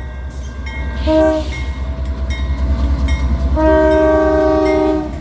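Norfolk Southern diesel locomotives moving off as light power. The horn sounds a short blast about a second in and a long blast from about three and a half seconds to near the end, over the steady low rumble of the engines.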